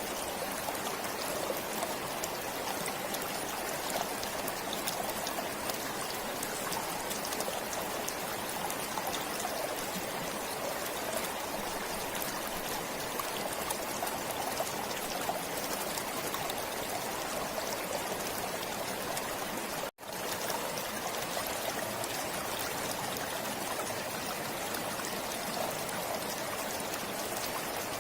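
Forest stream flowing and trickling steadily. The sound drops out for an instant about two-thirds of the way through.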